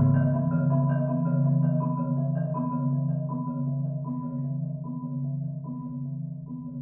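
Marimba playing a slow, quiet passage: single mallet strokes about once every three-quarters of a second over sustained low notes, gradually fading.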